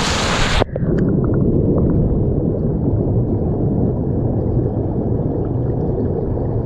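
A loud hiss of water at the surface cuts off sharply under a second in as the microphone goes under. It gives way to a steady, muffled underwater rumble of a swimming pool, with a few faint bubble ticks.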